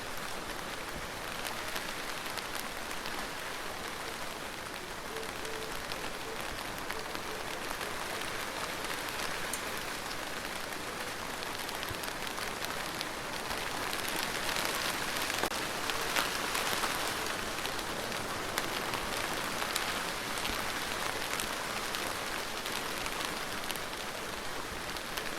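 Steady rain falling, a continuous hiss with many separate drops ticking through it. It grows a little heavier and louder about halfway through.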